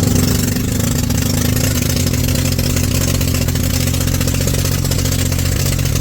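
A small engine running steadily at a constant speed, loud and close, with a fast even firing beat.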